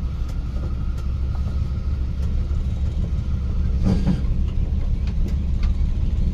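Chrysler 440 big-block V8 of a 1977 Dodge pickup running at a steady low rumble as the truck is put in reverse and backs up.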